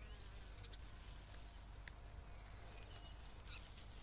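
Faint open-field ambience with a few soft, distant bird chirps.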